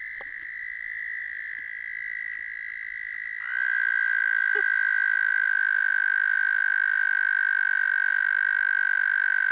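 Frogs giving long, steady trills: one high trill runs throughout, and about three and a half seconds in a second, slightly lower and louder trill starts and overlaps it. This is a spring breeding call.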